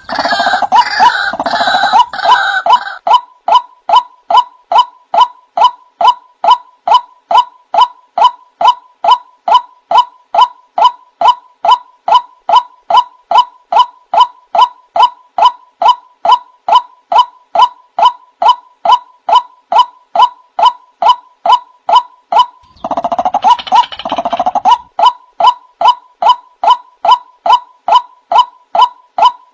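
Male white-breasted waterhen calling: a steady, rapid series of short, repeated notes, a few each second, with louder bursts of harsh gurgling chatter at the start and again about 23 seconds in.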